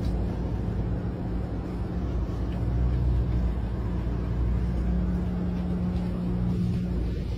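Steady low mechanical drone with a constant hum, like a vehicle engine running.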